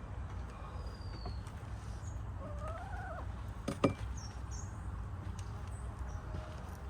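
Backyard hens in a coop: one hen gives a drawn-out call that rises and falls about two and a half seconds in, with faint high chirps around it. A single sharp knock just before four seconds is the loudest sound, over a steady low rumble.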